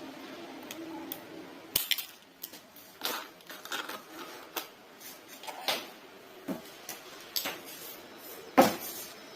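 Irregular metallic clicks and knocks from hand tools working on a soldering iron's metal parts, with the loudest knock near the end.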